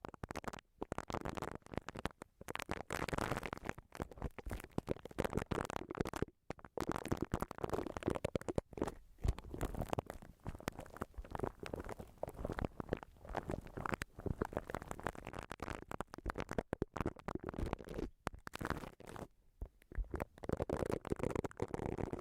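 Close-miked ASMR trigger sounds: dense, continuous scratching and crackling made of many small clicks and scrapes, with a few brief pauses.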